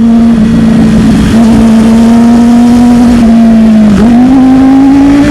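Sport motorcycle engine running at high, steady revs while riding, with wind noise. The revs dip briefly about four seconds in, then climb again.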